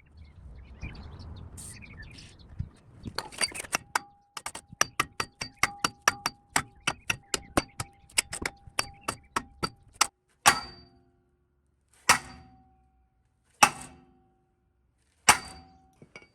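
Hammer blows on steel, struck at a seized suspension ball joint to drive it out: a scraping rustle at first, then a fast run of ringing strikes, about three or four a second, and four heavier ringing blows about a second and a half apart near the end.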